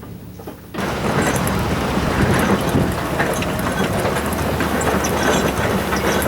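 A vehicle running, with a loud clattering rattle that starts suddenly about a second in and keeps on steadily.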